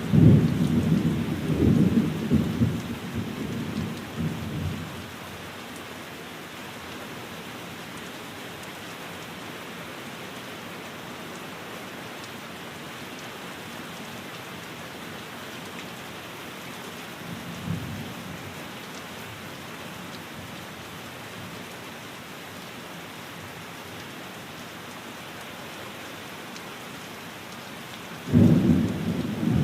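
Steady rain falling, with rolls of thunder: a loud rumble that dies away over the first few seconds, a faint short one about midway, and another loud one starting near the end.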